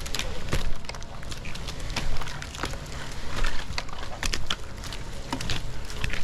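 Footsteps crunching through dry leaves and brush, with irregular twig snaps and crackles.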